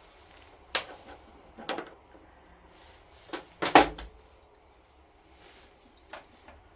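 A handful of short knocks and clunks, the loudest a close pair a little before the middle, as tools and cable ends are handled while a lawn tractor's battery terminals are disconnected.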